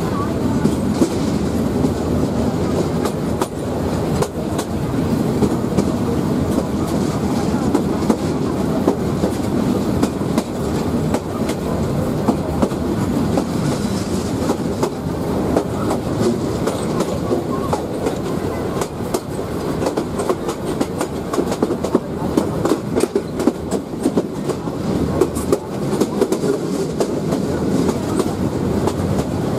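Bangladesh Railway passenger train running at speed, heard from an open carriage window: a steady rumble of wheels on rail with many quick clicks as the wheels pass over rail joints.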